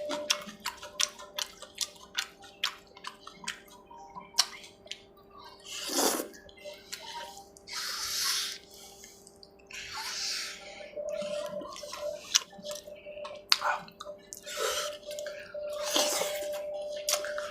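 Close-miked eating: wet chewing and lip-smacking clicks, with a few longer slurps, over faint steady tones.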